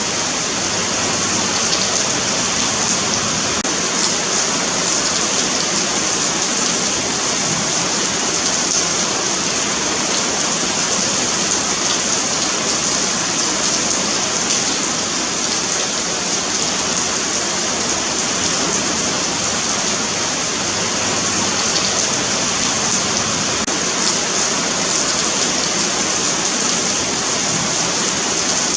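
Steady rain falling on a pavement, an even hiss of drops with the brightest part high up and no change in intensity.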